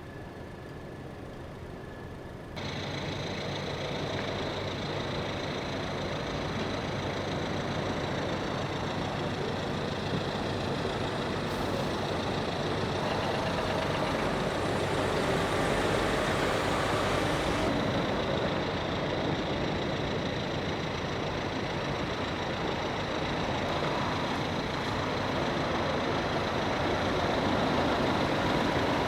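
Motor vehicle engines running with steady traffic noise, stepping up suddenly in loudness about two and a half seconds in and then slowly growing louder.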